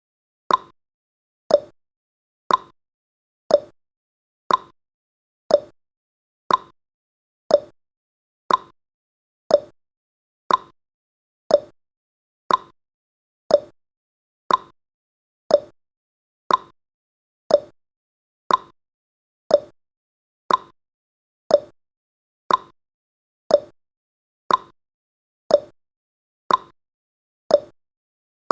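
Clock-tick sound effect of a countdown timer, one short tick each second at a steady, even pace.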